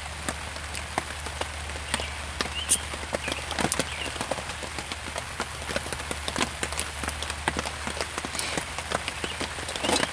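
Rain hitting a tarp overhead: many irregular sharp drop taps over a steady hiss of rain.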